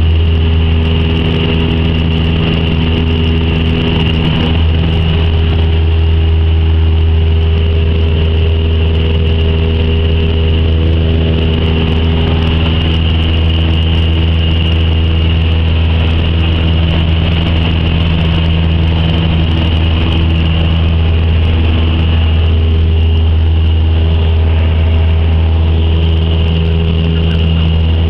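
Cessna 172's piston engine and propeller running steadily, heard from inside the cabin as a constant drone.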